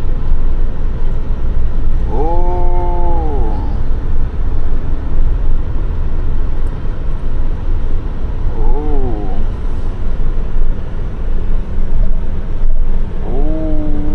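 Steady low road and engine rumble of a moving truck. Three times, a short pitched call rises and falls over it.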